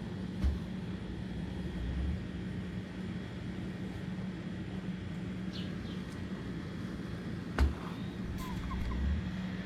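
A steady low mechanical hum, like a distant engine, with two dull thumps about seven seconds apart and a few faint bird chirps.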